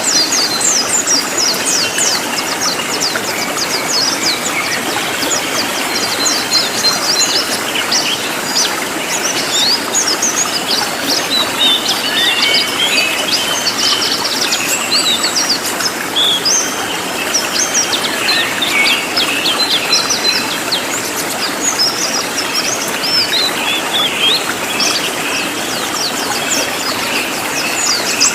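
A cililin songbird singing a dense, rapid stream of high-pitched chips and quick sweeping notes, over a steady background hiss.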